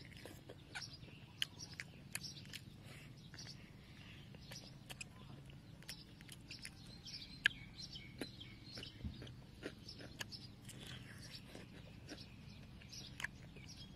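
Crunchy chewing and biting of crispy deep-fried pork ribs close to the microphone: irregular crisp clicks and crackles, with birds chirping faintly in the background.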